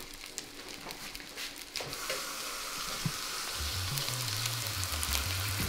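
Breaded turkey cutlets sizzling steadily as they shallow-fry in hot oil in a cast-iron skillet, the sizzle growing louder about two seconds in.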